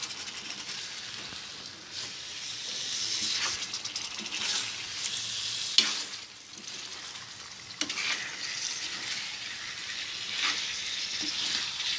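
Rohu fish steaks sizzling in oil and spice paste in a kadai as they are stirred, with a spatula scraping and knocking against the pan several times.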